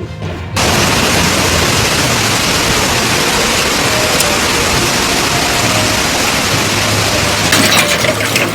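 Hail and heavy rain pelting down: a dense, steady hiss that cuts in abruptly about half a second in. Near the end the hits turn sharper, with many distinct clicks of hailstones striking.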